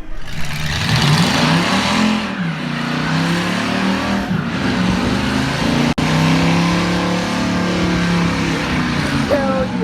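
A vehicle engine running and revving, its pitch rising and falling, with a sudden brief break about six seconds in.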